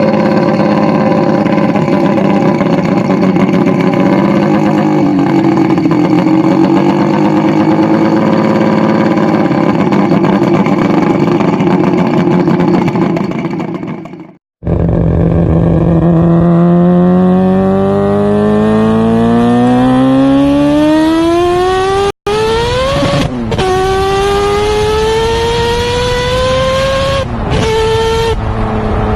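Rotary-engined car running at a steady, slightly wavering speed. A second run follows, where it accelerates hard: the engine note climbs steadily, then drops back at each gear change, twice near the end.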